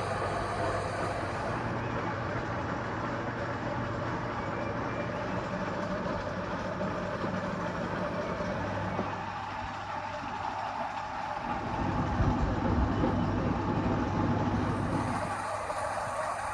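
A machine running steadily with a constant low hum and hiss, louder for a few seconds about twelve seconds in.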